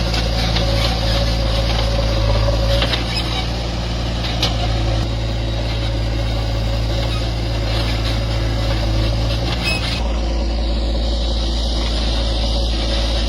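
Heavy diesel engine running steadily, with a few short knocks over it; part of its low hum drops away about ten seconds in.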